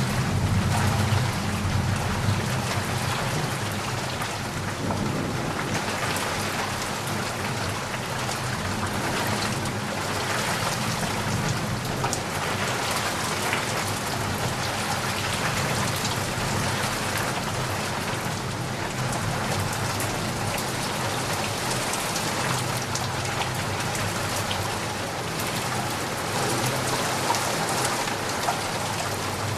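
Heavy rain falling steadily, a dense even hiss of drops, with low rolling thunder rumbling during the first few seconds and again near the end.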